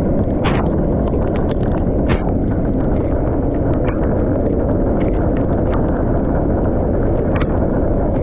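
Large hailstones pounding a vehicle: a steady roar of hail and rain with frequent irregular sharp knocks of stones striking the body and glass, a few of them markedly louder.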